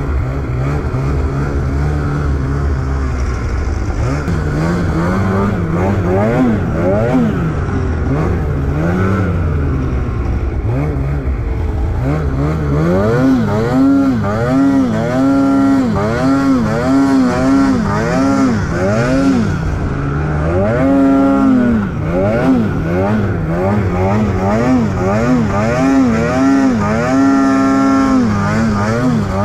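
Snowmobile engine running under changing throttle. For about the first twelve seconds its pitch is lower and fairly steady; after that it revs up and down again and again in quick swells.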